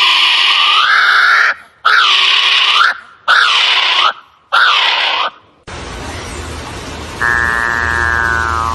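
Loud, harsh bird screeches, four in a row, each dipping and then rising in pitch. About halfway through it switches abruptly to a different recording: a steady hiss, then a drawn-out buzzy call near the end.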